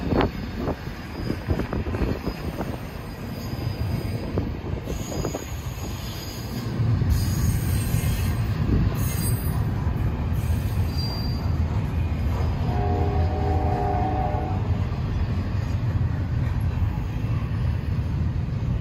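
Double-stack intermodal freight train rolling past, its steel wheels rumbling steadily on the rails. The rumble grows heavier about a third of the way through, and a brief steady tone sounds about two-thirds of the way through.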